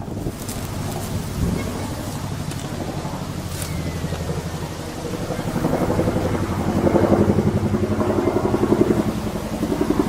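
An engine running steadily, a low hum of evenly spaced tones that swells louder past the middle, with wind noise over it.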